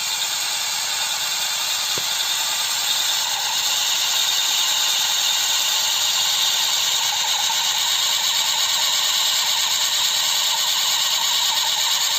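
Kubota DC-93 combine harvester running at work, a steady, loud, high-pitched mechanical whine over its engine, growing a little louder about three seconds in.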